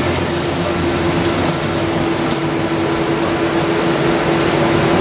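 Airliner cabin noise while the jet taxis after landing: a steady rush of engine and air noise with a steady hum, slowly growing a little louder.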